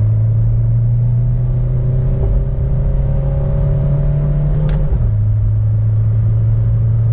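Remapped Maruti Suzuki Baleno's 1.3 DDiS turbodiesel engine pulling hard under full throttle after a downshift, its pitch climbing steadily. About five seconds in a gear change drops the pitch, which then starts climbing again.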